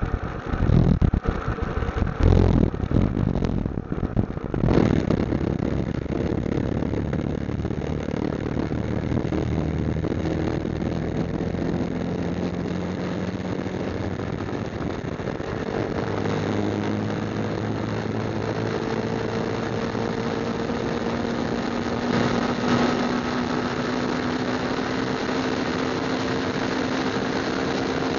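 Motorcycle engine running on the move, its pitch climbing slowly as it gathers speed. Wind buffets the microphone in gusts for the first few seconds.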